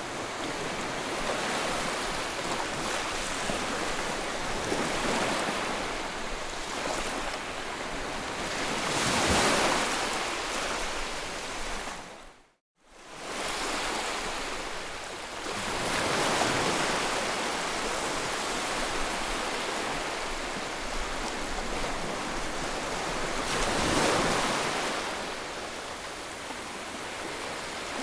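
Ocean surf: a continuous rush of waves washing in, swelling louder twice as larger waves break. About halfway through it cuts out briefly and fades back in.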